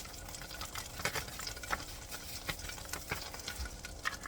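Butter and olive oil crackling faintly in a hot frying pan, with scattered irregular pops and light clicks of seasoning being stirred in.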